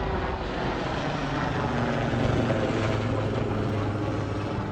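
Display aircraft flying overhead: a steady engine drone over wind and crowd noise, growing a little louder about halfway through.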